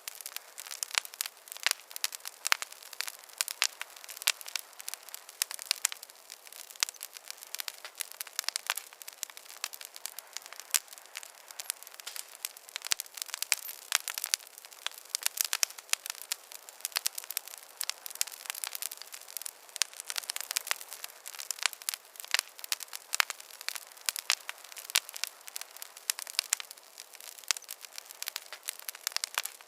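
Wood fire crackling in a fireplace: a steady stream of irregular sharp pops and snaps over a soft hiss.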